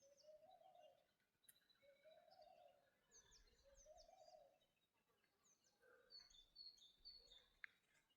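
Faint outdoor birdsong: a low call repeated three times, each note rising and then falling, with short high chirps and trills from other birds around it.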